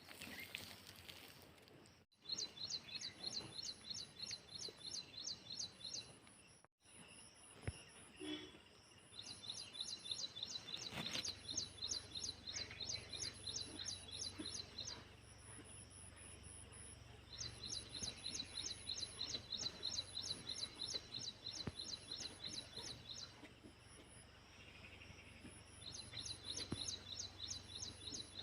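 High-pitched chirping, about four chirps a second, in bouts of several seconds separated by short pauses.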